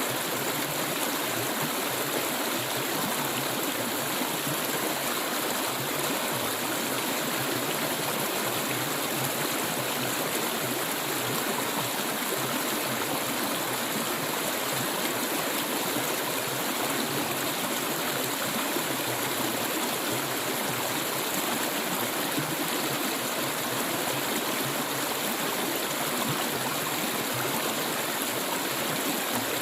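Clear water flowing steadily, a continuous even rush of running water with no breaks or changes.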